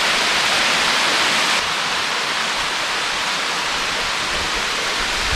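Newell Falls, a roadside waterfall, rushing steadily: a dense hiss of falling water, a little quieter from about a second and a half in.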